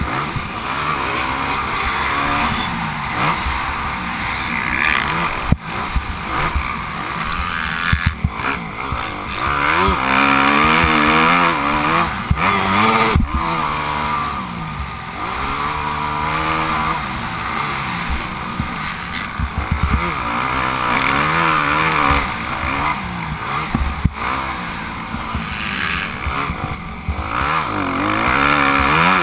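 Motocross bike engine being ridden hard, its pitch rising and falling over and over through the revs, with a few sharp knocks along the way.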